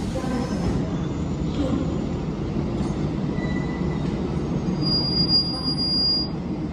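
Diesel multiple unit (DEMU) train pulling slowly into the platform, its diesel engine and wheels running with a steady low rumble. A high steady wheel or brake squeal comes in about five seconds in and lasts a second or so.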